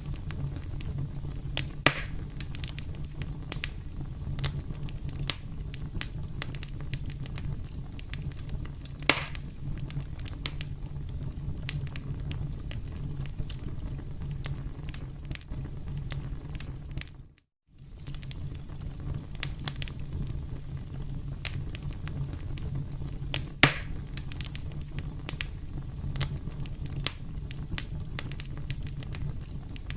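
Crackling campfire: a steady low rumble of burning wood under constant small crackles, with a few louder sharp pops. The sound cuts out completely for a split second about halfway through.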